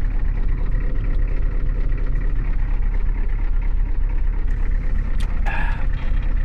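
Diesel vehicle engine running steadily with a deep low hum.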